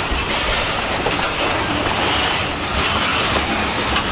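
Freight train rolling past close by, its wheels clattering over the rails with a steady rumble.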